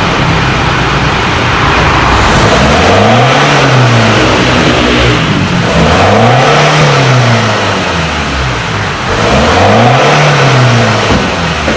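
Ford Ranger 2.2 four-cylinder diesel through a full aftermarket stainless exhaust, revved up and let fall back three times from idle, a few seconds apart.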